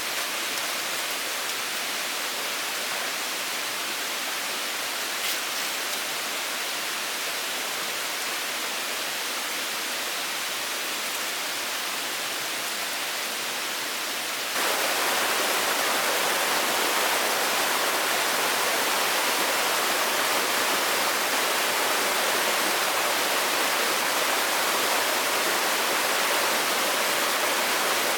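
Steady rushing of water in a rainforest, an even hiss with no distinct events, that jumps abruptly louder about halfway through.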